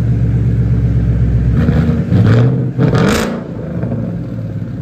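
Dodge Viper V10 engine running with a loud exhaust: idling, then revved about two seconds in with a rising pitch that peaks around three seconds, then dropping back to idle.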